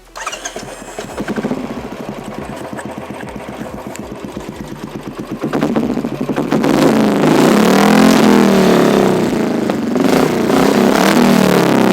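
Royal Enfield Classic 350's single-cylinder engine breathing through an aftermarket Motor Torque launcher exhaust with no baffles, only ceramic wool packing. It starts up and idles with an even beat, then is revved repeatedly and loudly from about five and a half seconds in. The exhaust is over the 80 dB legal limit.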